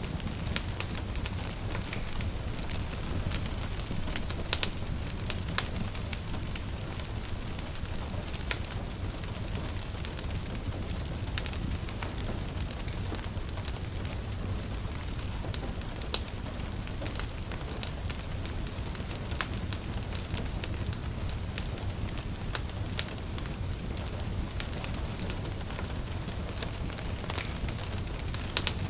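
Wood fire crackling, with frequent irregular sharp pops and snaps over a steady low rumble, mixed with the even patter of gentle rain.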